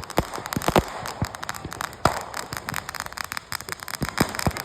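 Fireworks going off close by: a rapid, irregular string of bangs and crackles, with a few louder bangs, the loudest about two seconds in.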